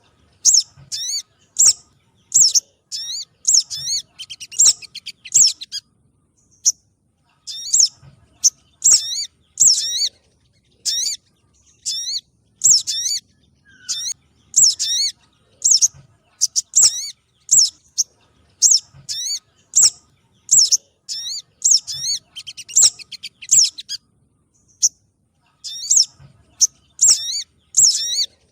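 Recorded spiderhunter (sogon) calls played as a bird lure: short, high, sharp call notes with quick pitch sweeps, repeated about once or twice a second with two brief pauses.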